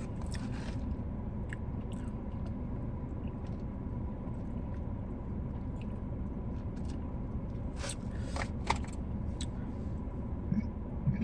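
Close-miked chewing and biting of food, with scattered wet mouth clicks over a steady low background rumble. A short burp comes near the end, which she blames on the sparkling drink.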